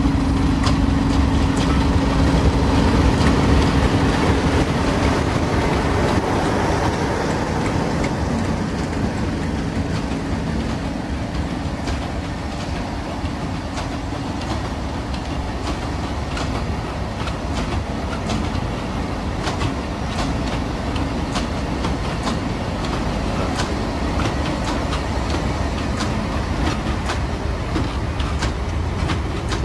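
Class 37 diesel locomotive's English Electric V12 engine running with a steady hum as it passes, fading after about six seconds. A long train of open freight wagons follows, rumbling by with the wheels clicking and clattering over the track.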